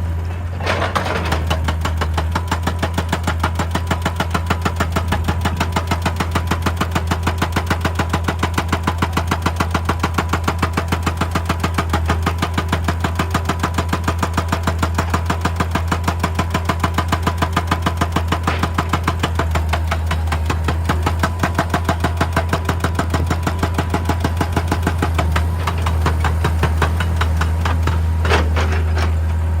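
Excavator-mounted hydraulic breaker hammering rock in a fast, steady rhythm of blows, over the low drone of the machine's diesel engine.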